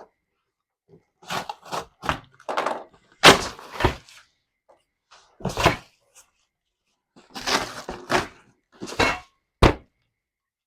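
Cardboard box being cut and ripped open with a knife: a string of short, irregularly spaced ripping and thudding noises.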